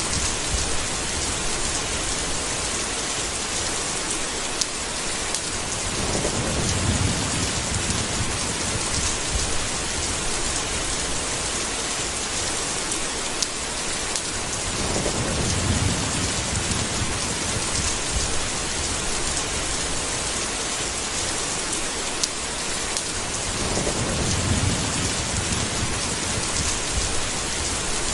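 Steady hiss of heavy rain, with three low rolls of thunder about nine seconds apart, each lasting a second or two.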